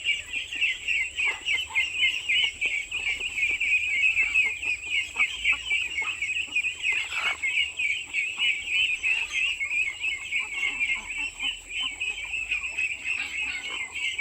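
Chickens calling: a dense, unbroken chorus of rapid high peeps, with a few lower clucks mixed in and a thin steady high tone behind.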